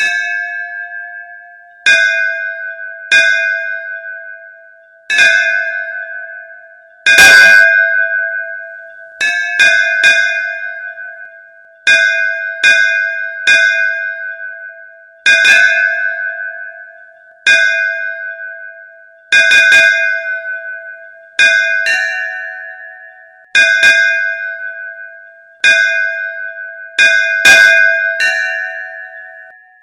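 A bell struck over and over in an uneven rhythm, every half second to two seconds, each stroke ringing and fading away. One stroke about seven seconds in is harder and louder than the rest. From about two-thirds of the way through, a second, slightly higher-pitched bell sounds a few times among the strokes.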